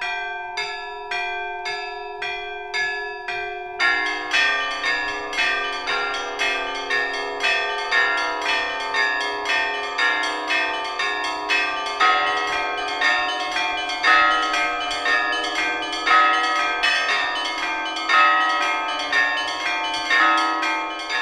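Church bells ringing. A few bells are struck in a steady, even rhythm, about one and a half strokes a second, and about four seconds in more bells join in a fuller, faster peal.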